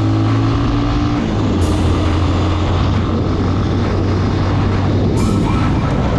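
Motorcycle engine running steadily while riding, its note shifting slightly about a second in.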